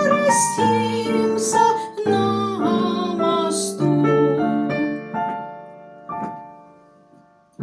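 Electric keyboard playing piano-voiced chords, the accompaniment to a sung romance; the notes grow quieter over the last few seconds and ring out to near silence.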